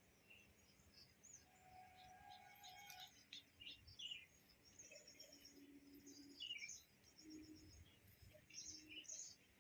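Faint chirping of small birds: many short, high notes and quick falling calls, scattered throughout.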